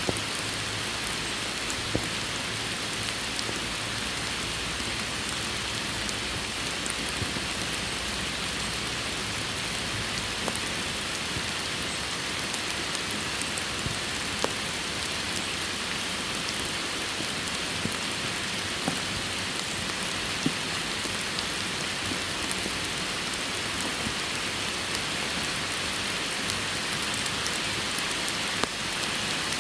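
Steady rain falling, a constant hiss with many small drops tapping and an occasional louder drip.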